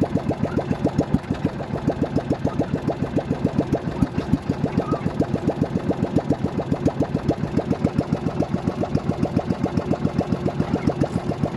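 A boat engine running steadily at low revs, a regular putter of about six beats a second.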